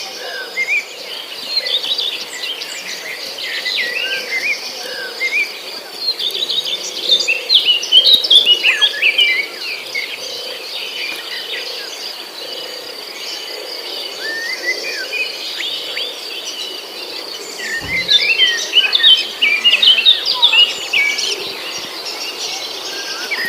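Many small birds chirping and chattering together, busiest in two flurries about a third of the way in and again near the end, over a steady high-pitched ringing.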